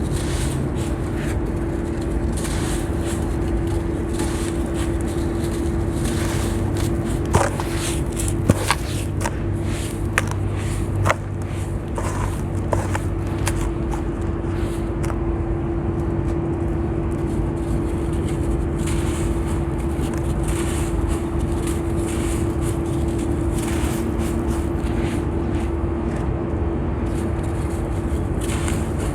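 Crispy sand block crumbling and scraping, with a handful of sharp cracks in the middle, over a steady low hum.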